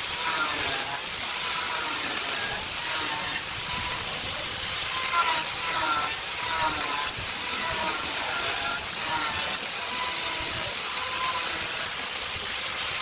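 Indistinct voices talking over a steady mechanical noise.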